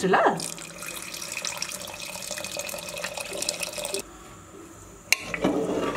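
Water pouring into a cooking pot for about three and a half seconds, stopping suddenly; a sharp click follows about five seconds in.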